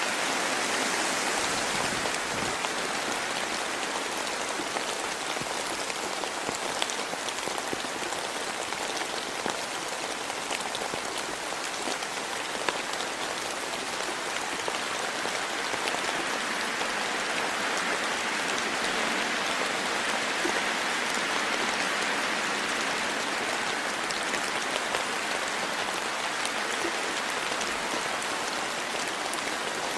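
Steady rain falling in a forest, a dense patter of many small drops landing on leaves and the ground.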